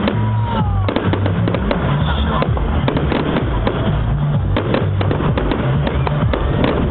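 Fireworks going off in a rapid, irregular barrage of bangs and crackles, with a short falling whistle near the start. A bass-heavy music track plays underneath.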